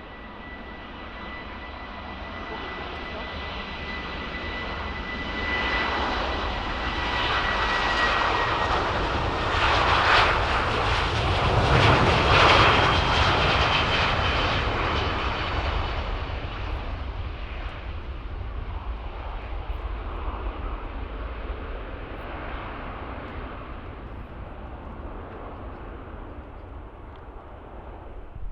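Jet airliner's engines passing close by: the sound builds steadily, is loudest about ten to thirteen seconds in, then slowly fades away, with a high whine heard as it approaches.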